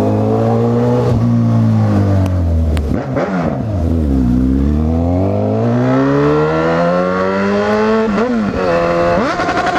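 Honda CB1000R inline-four motorcycle engine under way, its pitch easing down, dropping sharply about four seconds in, then climbing steadily as it pulls, with quick rev blips near the end.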